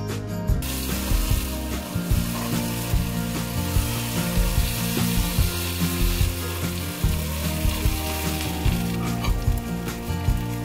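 Oil sizzling steadily as marinated paneer and vegetable pieces shallow-fry in a nonstick frying pan, starting about half a second in, over background music.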